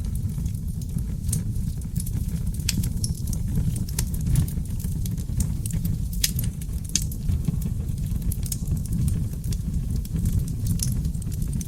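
Wood fire of seasoned oak logs burning in a fireplace: a steady low rumble of flames with frequent irregular crackles and pops, a few sharper pops around the middle.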